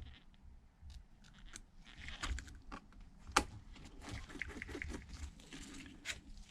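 Faint clicks and light taps of small precision tools and parts being handled on an opened tablet, with one sharper click about three and a half seconds in.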